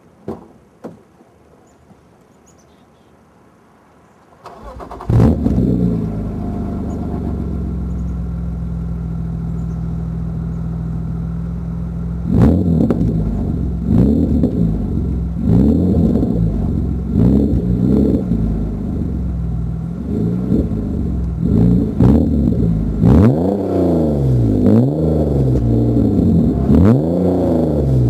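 1995 BMW M3's 3.0-litre straight-six, breathing through an Active Autowerke track pipe and UUC exhaust, starting up after a couple of clicks, idling steadily, then revved again and again in short blips, the revs coming quicker and climbing higher toward the end.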